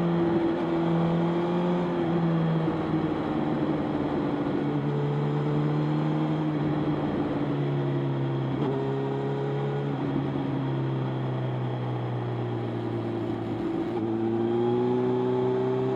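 Motorcycle engine running under way, its note holding steady, dipping lower through the middle and rising again near the end, over a steady rush of wind and road noise.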